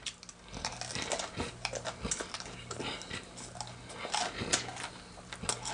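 Close-miked chewing of crunchy fried chicken wings: scattered crunches and wet mouth clicks over a steady low hum.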